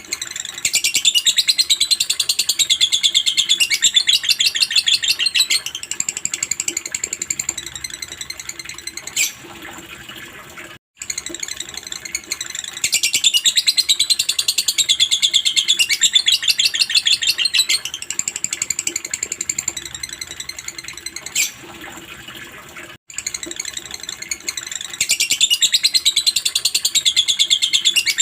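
Lovebird chattering in long, very rapid high-pitched trills, the 'ngekek' call. Loud stretches ease off into quieter chatter, with a brief break and the same stretch starting over about every twelve seconds. A sharp click comes shortly before each break.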